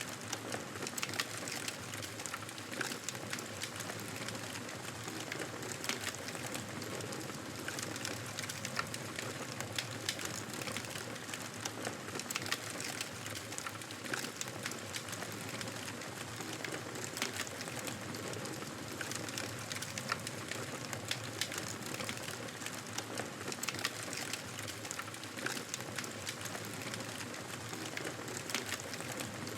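Wood fire crackling in a fireplace: a steady soft hiss, with many small sharp pops and snaps scattered irregularly throughout.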